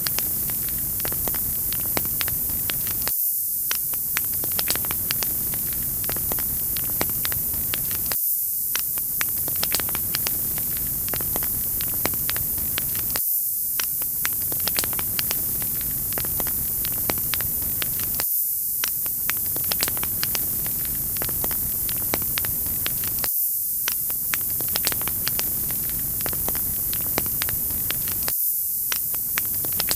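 Wood fire crackling with many small sharp pops over a steady, bright hiss and a low hum. The same short stretch of recording repeats about every five seconds, as a looped track.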